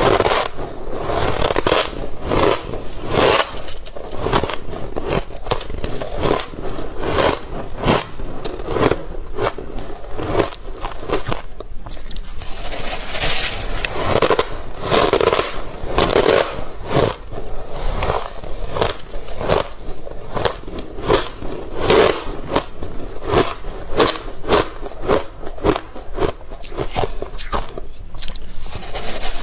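Freezer frost being scraped and bitten: a long, dense run of short crunches and scrapes, several a second.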